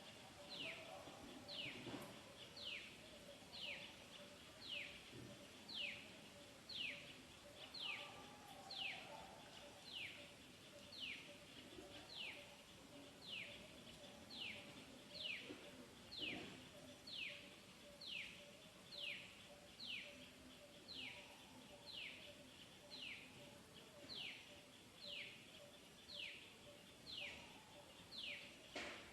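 A bird calling over and over: a short, high falling note repeated about once a second, with a faint steady hum beneath.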